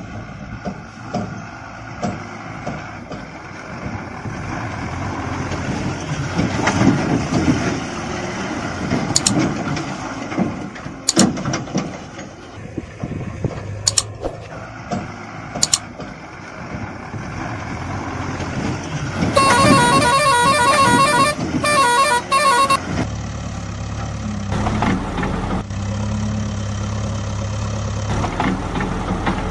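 Vehicle engine running, with a few sharp clicks, then a loud horn about two-thirds of the way in that sounds for roughly three seconds and breaks into short blasts. After the horn the engine settles into a steady idle.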